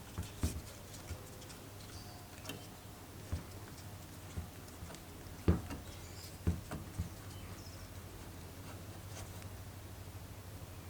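A few irregular knocks and clicks, the loudest pair about halfway through, over a low steady hum.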